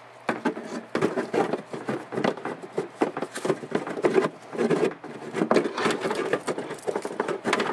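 Irregular knocking, clicking and rubbing as batteries and a battery tray are handled and fitted into a model boat hull.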